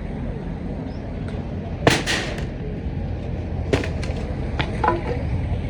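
A few sharp knocks or bangs, two close together about two seconds in and more near the middle and later, over a steady low rumble.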